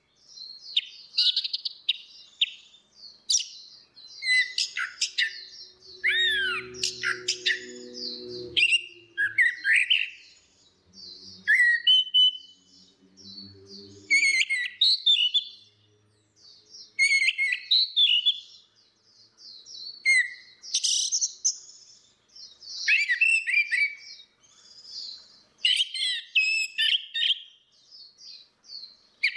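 Orange-headed thrushes singing: a rich, fast run of varied whistled phrases and chirps in short bursts with brief pauses. Under the song, a low humming tone sounds for a few seconds about a fifth of the way in.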